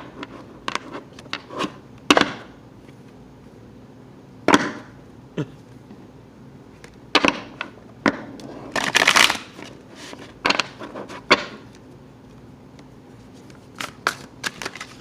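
A deck of tarot cards being handled and shuffled: scattered sharp clicks and taps, with a short rattling burst about nine seconds in.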